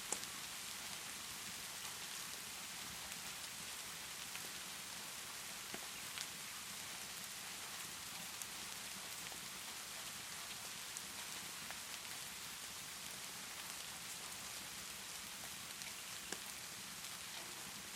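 Steady rainfall hissing evenly, with a few sparse sharp crackles from a wood fire scattered through it.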